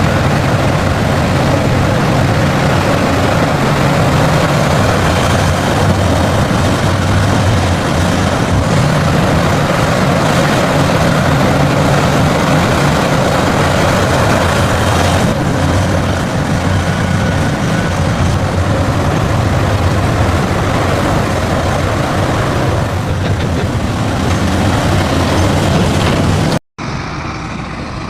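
Heavy diesel engine of earthmoving machinery running loudly and steadily. Near the end it cuts off abruptly, and a quieter engine sound follows.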